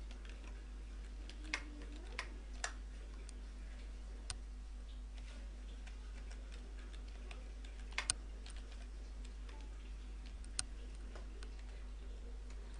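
Scattered single clicks from a computer keyboard and mouse as code is edited, a few seconds apart with a quick pair about two-thirds of the way through, over a steady low electrical hum.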